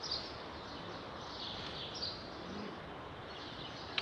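Outdoor ambience: birds calling a few times, high and brief, over a steady background hiss.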